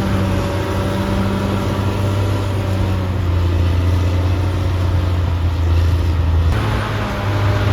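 Caterpillar D6R XL bulldozer's diesel engine running steadily under work with a deep, even drone. The tone changes abruptly about six and a half seconds in.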